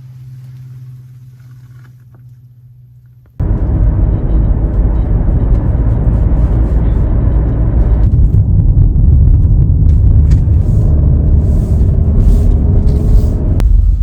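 Car on the move: a loud, dense low rumble of road and engine noise that comes in suddenly about three seconds in, after a faint steady hum.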